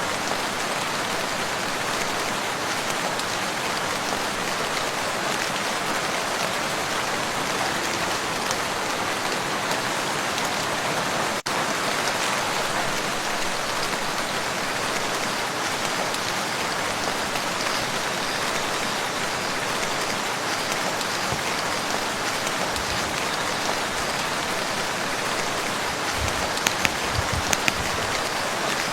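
Steady rain falling on a lake, a dense even hiss of drops on the water. It drops out for an instant about eleven seconds in, and a few sharper, louder taps stand out near the end.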